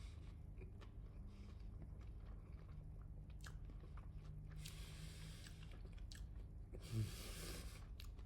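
A person chewing and biting into bone-in fried chicken at close range, with small wet clicks and two louder bursts of crunching, about five and seven seconds in.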